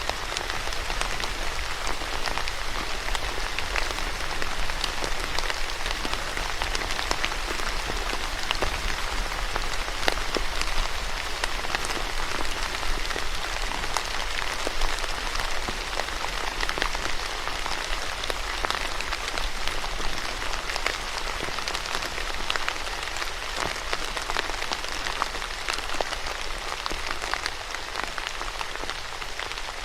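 Steady rain falling on a surface, a continuous hiss dotted with the ticks of individual drops.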